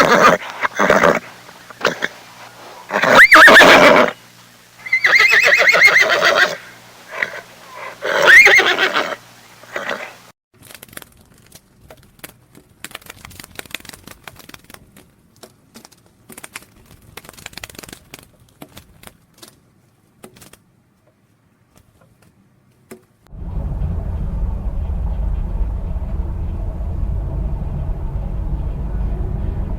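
Horse neighing, several loud, wavering whinnies in the first third. These are followed by a stretch of faint scattered clicks and taps. A steady low rumble sets in near the end.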